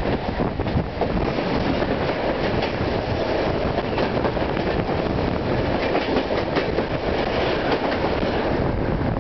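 A passenger train passing close alongside on the next track, heard from another moving train: a steady, loud rush of noise with a rapid clatter of wheels over the rails.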